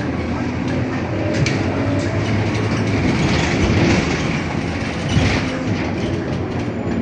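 Scania K230UB single-deck city bus under way: its five-cylinder diesel engine running with a steady low drone over road rumble, with rattles and a few sharp clicks from the body, and a louder knock about five seconds in.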